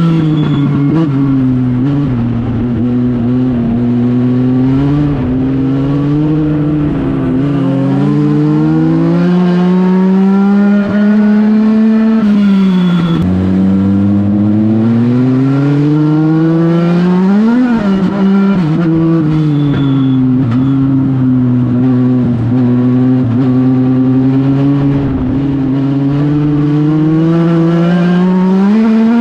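Legend race car's four-cylinder Yamaha motorcycle engine running hard at racing speed. The revs climb steadily, drop sharply about halfway through as the car lifts, then rise again, with a quick rev spike and fall a few seconds later.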